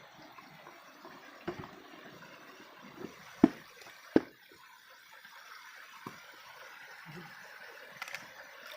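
Shallow stream water running steadily, with a few sharp knocks; the two loudest come close together about three and a half and four seconds in.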